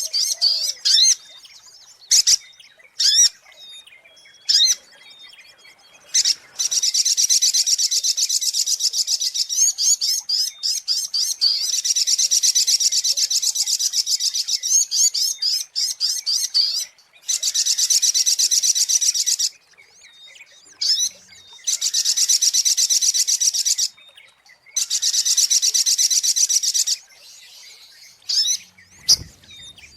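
Sogok ontong (spiderhunter) calls from a lure recording: long runs of fast, high chittering trills lasting a few seconds each, broken by short pauses, with a few short separate chirps in the first seconds. A brief low thump comes near the end.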